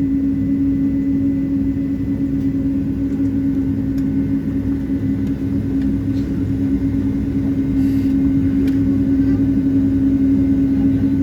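Steady cabin drone inside a Boeing 777-200 as it taxis after landing: a constant low hum over a rumble, with a few faint ticks.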